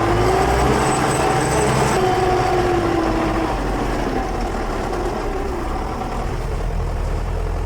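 Heavy vehicle engine running hard under load, its pitch rising slightly and then falling away over the first three seconds.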